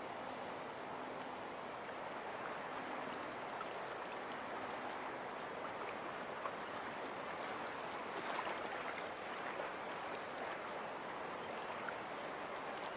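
Steady rushing water with small scattered pops and gurgles, swelling briefly about eight seconds in.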